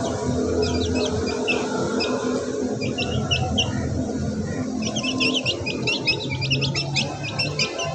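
Many small birds chirping in short, quick notes, thickening into a dense chorus about five seconds in, over a lower steady layer of sound.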